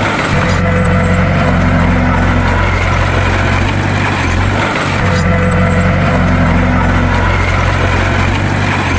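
Bulldozer's diesel engine running steadily, a loud low drone, with the same sound pattern repeating about every four and a half seconds.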